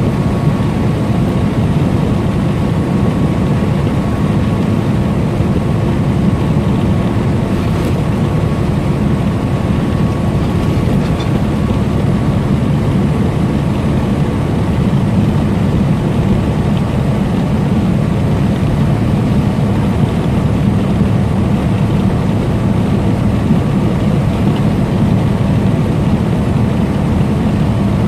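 Semi truck running steadily at highway speed: a constant low drone of diesel engine and road noise, with a faint steady whine above it.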